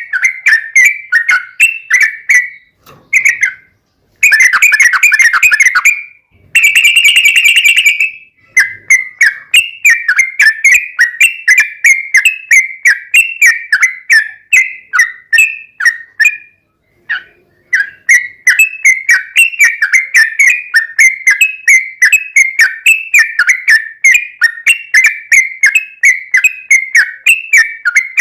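Yellow-vented bulbul (trucukan) singing a long, rapid run of clear whistled chirps, about three notes a second. About four seconds in come two denser, fuller trills of about two seconds each, and there are brief pauses near the start and in the middle.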